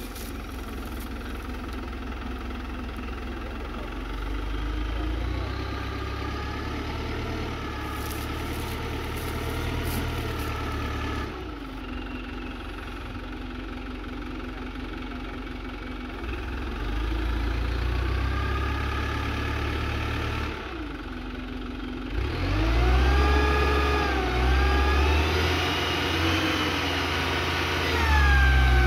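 Hino Dutro 130 HD dump truck's diesel engine running, rising in pitch several times under acceleration and dropping back to idle in between, loudest near the end.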